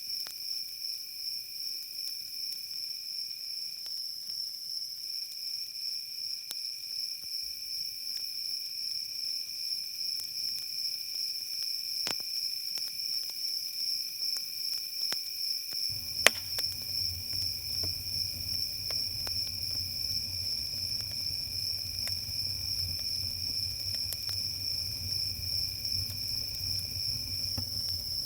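Crickets chirping in a steady, pulsing high trill, with a second, lower insect call beneath it. Scattered sharp pops of a crackling campfire come through, one loud pop about halfway, and a low rumble joins at the same point.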